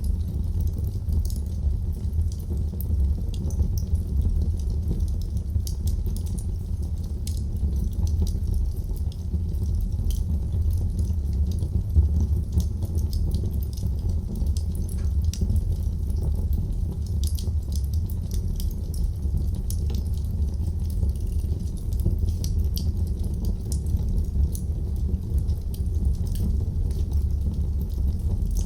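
Wood fire in a fireplace crackling: many small, sharp, irregular pops over a steady low rumble of the flames.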